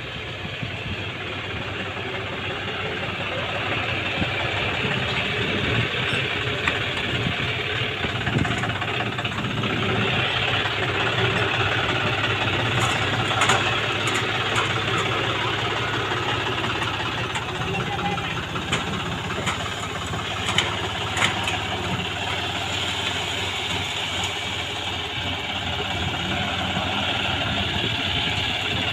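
Diesel engine of a tractor or backhoe running steadily, growing a little louder over the first few seconds, with a few short sharp clicks or knocks around the middle.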